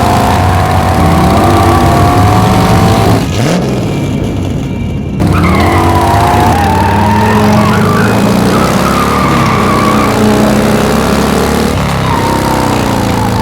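Car engines revving and running at speed, their pitch rising and falling, with a brief quieter break about three seconds in before the revving resumes.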